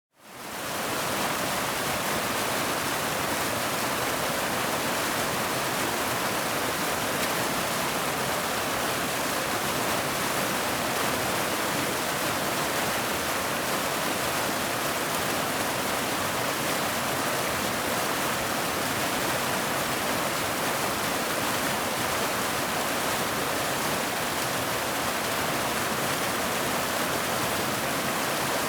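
Waterfall rushing in a steady, dense roar of falling water. It drops out briefly at the very start and fades back in.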